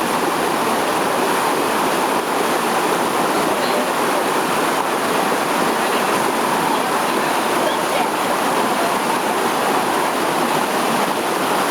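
Steady rush of flowing water, an even unbroken hiss.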